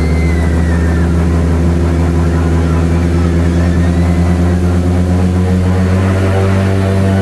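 Airboat engine and its large air propeller running steadily under way, a loud, even drone.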